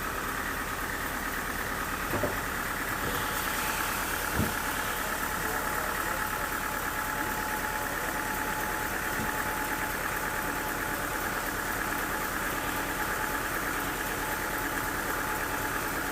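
An engine-driven machine running steadily at an even speed, with two short knocks about two and four and a half seconds in.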